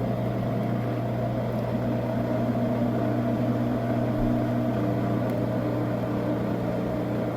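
Washing machine running mid-cycle with a steady motor hum and a faint higher tone that comes and goes.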